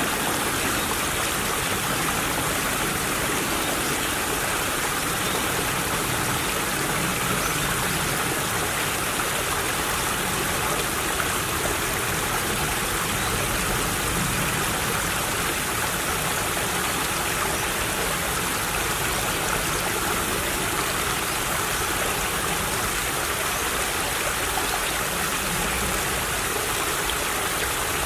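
Small stream running over stones, a steady babbling flow of water.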